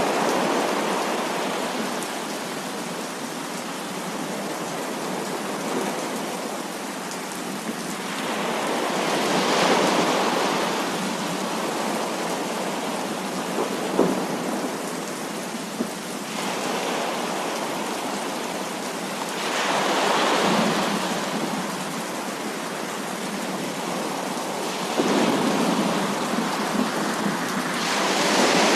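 Heavy rain falling steadily, with thunder rolling in slow swells that come three times. There is one sharp tick about halfway through.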